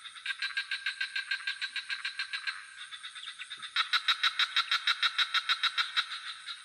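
Frog chorus in the swamp at night: a frog calls in rapid pulsed trills, about seven pulses a second, in two bouts with a short lull between. A steady high insect buzz runs underneath.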